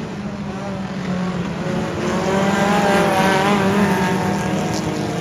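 Dirt-track race cars running laps: a steady engine drone, with one car passing close about three seconds in, louder and its engine pitch rising then falling as it goes by.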